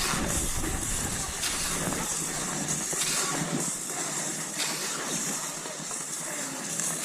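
Cross-country skis sliding over snow: a steady hissing swish that changes with each stride, about every second and a half.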